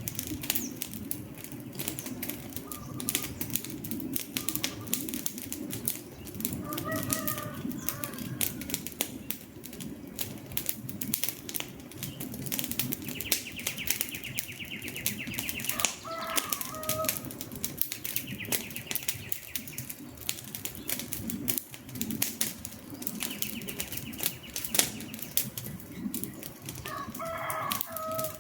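Wood campfire crackling, with a dense run of sharp pops and snaps over a low rumble of burning. Birds call a few short times, with three longer buzzy trills in the middle.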